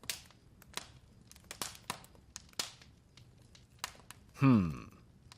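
Scattered light crinkling and clicking, with a single short voice-like sound about four and a half seconds in that falls steeply in pitch.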